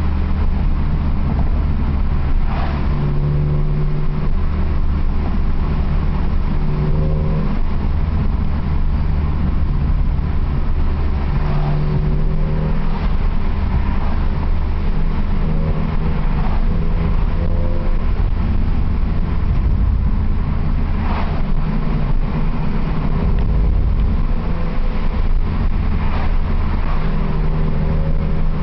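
BMW E46 M3's S54 straight-six running through a UUC RSC aftermarket exhaust with Rasp terminator section 1 while driving, a steady exhaust drone whose pitch climbs and drops again and again with throttle and gear changes.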